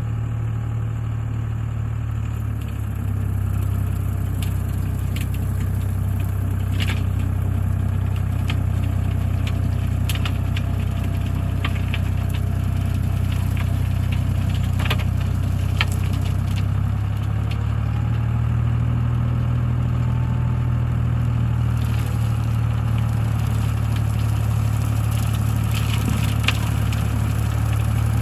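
Tractor engine running steadily while a tractor-mounted topper cuts through brambles and ivy, with scattered sharp cracks and clatter from stems and twigs. The engine gets slightly louder about three seconds in.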